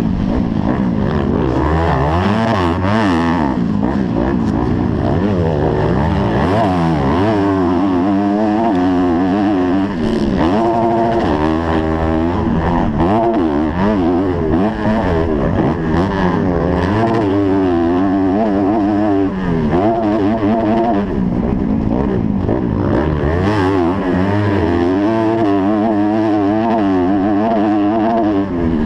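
250-class motocross bike engine revving up and backing off again and again as it is ridden round the track, heard close up from the rider's helmet.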